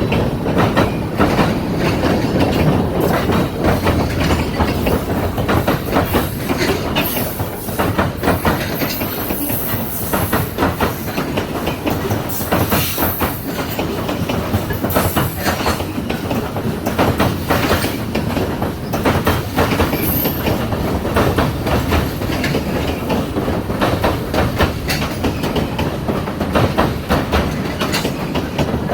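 Freight train rolling past, its wheels clicking over rail joints in a continuous clickety-clack over a steady rumble, with occasional brief high wheel squeals.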